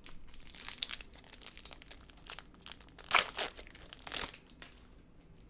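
Baseball trading cards rustling and crinkling as they are shuffled and sorted by hand: a quick run of crackles, loudest about three seconds in, stopping near the end.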